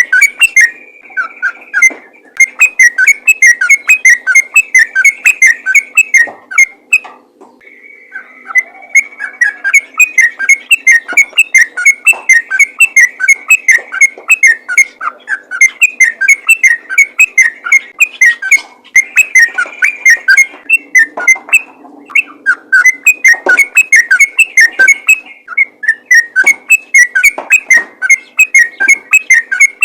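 Yellow-vented bulbul (trucukan) singing a fast, unbroken string of sharp whistled notes, several a second, in its aggressive 'fighter' style. The song pauses briefly about seven seconds in.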